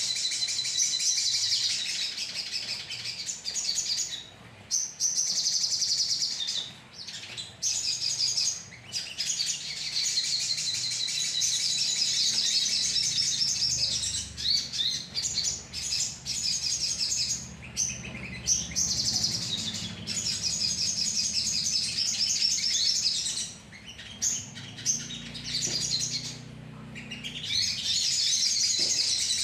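A colony of sogon birds chattering together: a dense, continuous twittering of many overlapping high calls, broken by a few short lulls. This is a lure recording, used to draw in sogon birds.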